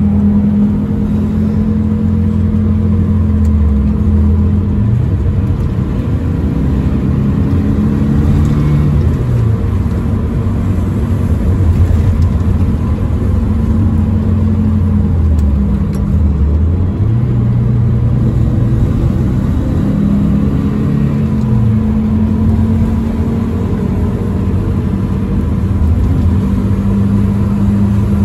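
Saab Monte Carlo 850's engine running while driving, heard from inside the cabin. Its pitch dips about four seconds in and again about sixteen seconds in, then climbs back up.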